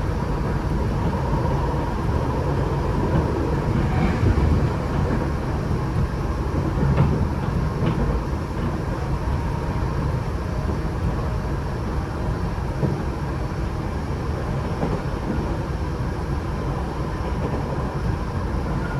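Interior running noise of a Tokyo Metro 8000 series subway car travelling between stations: a steady rumble of wheels on rail, with two faint clicks about seven and eight seconds in.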